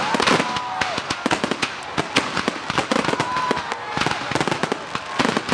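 Fireworks display: a rapid barrage of aerial shell bursts and crackling reports, several a second, with a few brief whistles among them.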